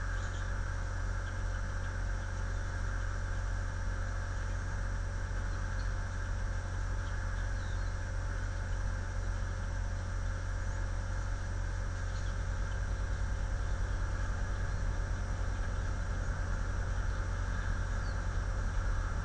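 Steady low hum and hiss from the outdoor falcon-cam microphone, with faint, brief high chirps of small birds now and then.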